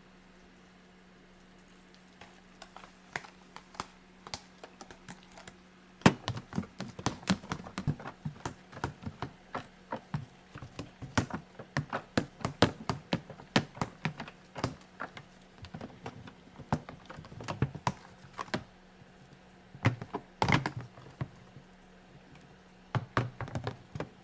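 Irregular taps and knocks of kitchen work, several a second, starting about six seconds in, over a faint steady hum.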